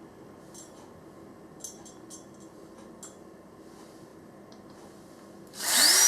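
A few faint clicks of hardware being handled, then about five and a half seconds in a power drill starts up with a quickly rising whine and runs at steady speed, driving a screw to fix a caster wheel to the platform.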